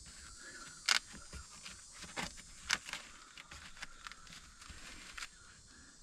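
Snake leggings being handled and strapped on: rustling with a few sharp rips and clicks, the loudest about a second in.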